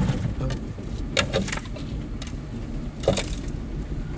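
Toyota 4Runner driving slowly over a rough dirt trail, a steady low rumble of engine and tyres, with two short bursts of rattling and knocking as it goes over bumps, about a second in and again about three seconds in.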